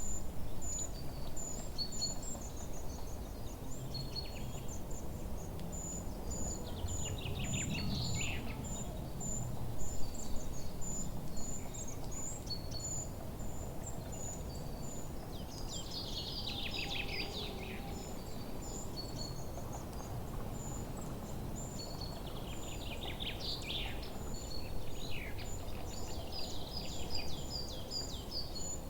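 Forest birdsong: one bird repeats a thin high note about twice a second, while others give songs of quick descending notes three times. A steady low background hiss lies underneath.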